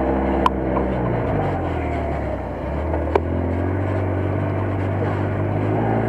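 Off-road buggy engine running, heard from aboard during a ride. Its pitch drops about a second and a half in and climbs again around three seconds. Two sharp knocks come, one early and one near the middle.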